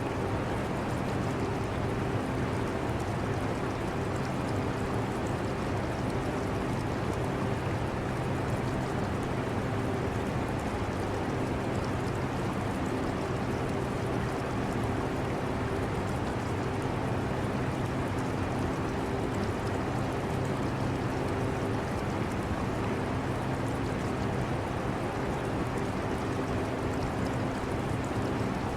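Portable air conditioner running with a steady hum, with a trickle of aquarium water mixed in. It stays constant throughout, with no changes.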